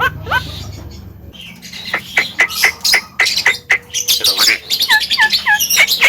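Javan myna (jalak kebo) singing: harsh squawks and sharp quick notes mixed with whistles, a rapid run of chattering notes from about a second and a half in, and three short falling whistles near the end.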